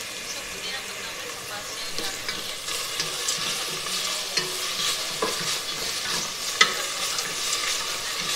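Onion, garlic, ginger, chillies and masala sizzling as they fry in oil in a pan, stirred with a wooden spatula that scrapes and knocks against the pan now and then; one sharp knock about two-thirds through is the loudest.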